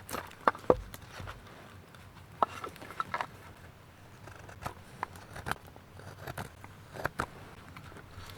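Knife carving wood: irregular sharp cuts and short scrapes as a blade shaves a wooden kuksa cup.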